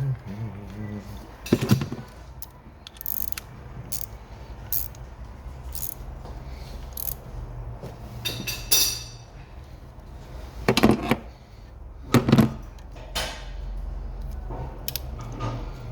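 Clinks and knocks of hand tools on metal engine parts. Three louder knocks come about a second and a half in, near eleven seconds and near twelve seconds, over a low steady hum.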